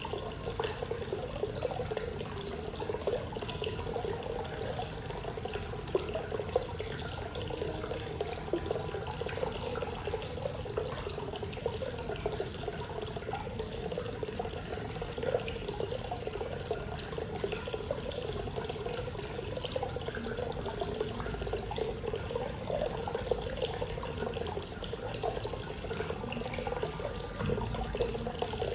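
Hot spring water pouring steadily from a spout into a bath, a continuous splashing and gurgling.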